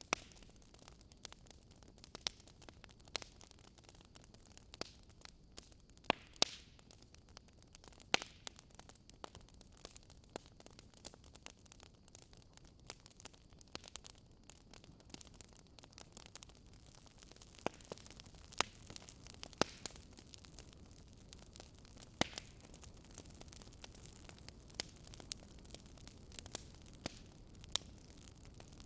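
Wood fire burning in a fireplace, crackling and popping irregularly over a low steady hiss, with a few louder snaps now and then.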